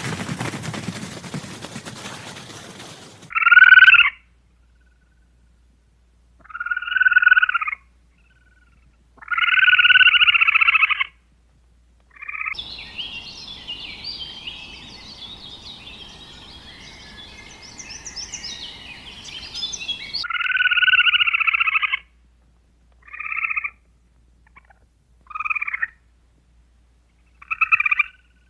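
Separate loud animal calls, each half a second to two seconds long, with gaps of silence between them. A jumbled chorus of higher calls fills the middle of the stretch, and a noisy passage ends the opening few seconds.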